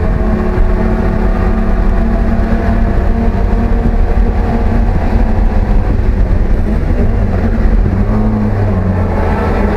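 Racing car's engine running hard at high, fairly steady revs, heard from inside the cockpit with road and wind noise.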